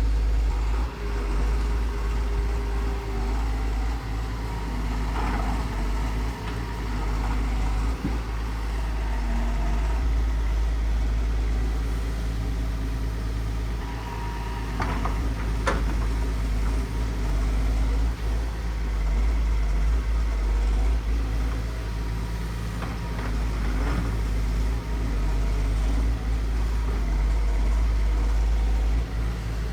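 Excavator's diesel engine running steadily with a deep rumble. A few sharp knocks or cracks break through it, the loudest about halfway through.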